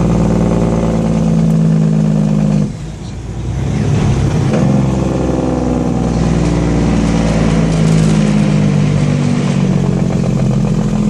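Kenworth W900L truck's diesel engine with its compression-release engine brake (Jake brake) barking loudly. It cuts out abruptly about three seconds in, then comes back on about a second and a half later and holds to the end.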